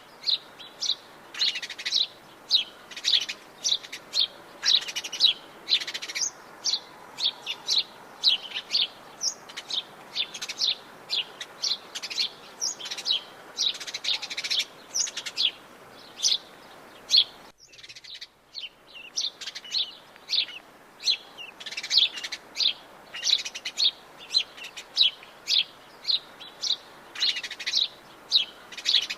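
A chorus of Atlantic Forest birds chirping and calling, a rapid stream of short, high chirps. About seventeen seconds in, the chorus briefly drops away, then resumes.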